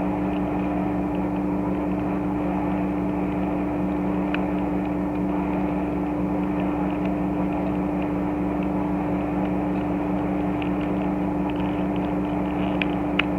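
A steady machine hum with two held tones runs throughout. A few faint light clicks come about four seconds in and again near the end, plastic toy parts being moved.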